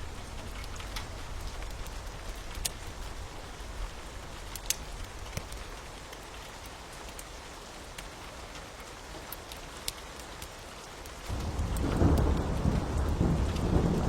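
Steady rain hiss with sharp, scattered crackles and pops from a wood fire. About eleven seconds in, a low rumble of thunder starts suddenly and grows louder.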